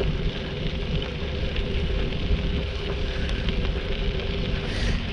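Bicycle tyres rolling steadily over a crushed-stone trail, with wind rumbling on the action-camera microphone.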